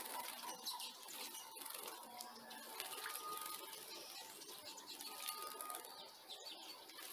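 Small birds at a birdbath: wing flutters and light clicks with short chirps, and two brief thin whistles about three and five seconds in.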